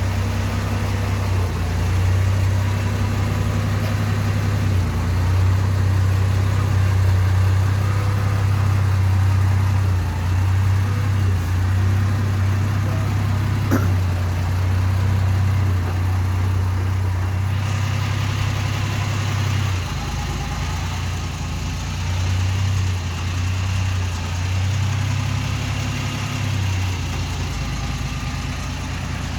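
The 1958 Mack B-21 fire truck's 1091 cubic-inch Hall-Scott straight-six running at low revs, its engine speed stepping up and down several times. There is a single sharp click about fourteen seconds in.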